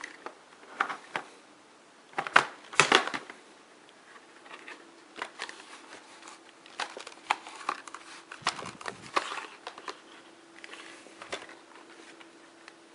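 Hard plastic clicks and knocks as the dust canister of a Eureka Airspeed Zuum upright vacuum is handled and fitted onto the body. The loudest cluster comes about two to three seconds in, then lighter scattered clicks follow.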